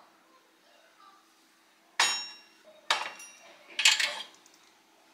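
Three sharp clinks and knocks of hard kitchenware being set down or handled, about a second apart, each with a brief ringing tail.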